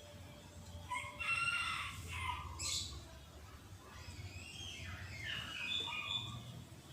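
Rooster crowing: one long call about a second in, followed by more calls in the second half.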